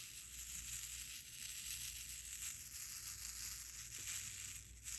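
Many small resin diamond-painting drills rattling and sliding together in a plastic tray, a steady, continuous high-pitched patter.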